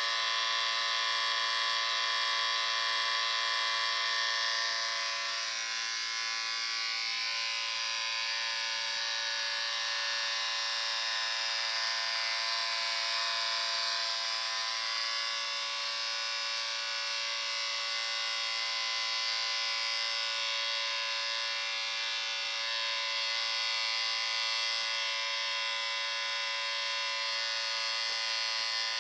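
Electric shaver running with a steady, even buzz, dropping a little in loudness about five seconds in.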